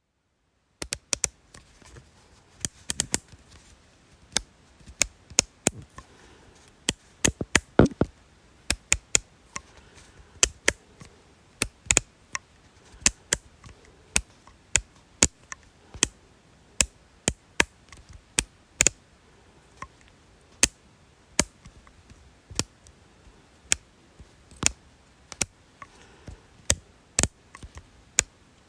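A long series of sharp, dry clicks, irregularly spaced at roughly one to two a second, some coming in quick pairs, starting about a second in.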